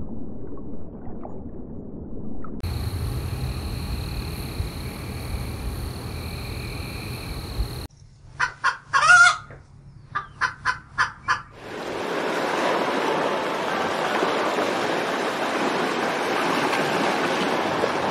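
For about the first eight seconds, a low rumble with a steady high whine. Then a rooster calls: a few short notes, one louder call about nine seconds in, and a quick run of short clucks. From about twelve seconds on, sea waves wash steadily over rocks.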